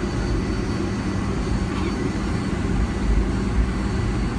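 Steady low rumble and hum of a Boeing 757-200 heard from inside its cabin, its Rolls-Royce engines running evenly, not spooling up.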